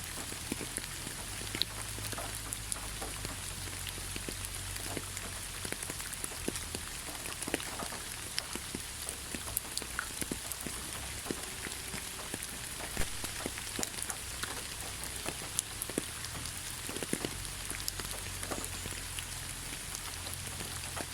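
Steady rain falling on leaves, a constant hiss with many separate drop taps scattered through it.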